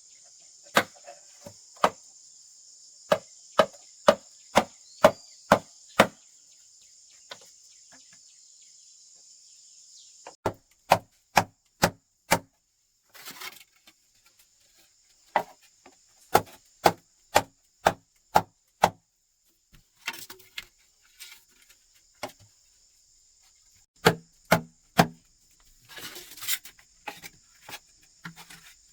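Chopping wood: runs of sharp blows, about two a second, with pauses between the runs. A steady high insect drone runs underneath.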